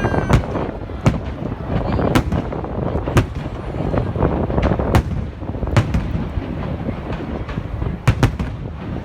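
Aerial fireworks exploding in a display: a string of sharp bangs about a second apart, two in quick succession near the end, over a continuous rumble of lower booms.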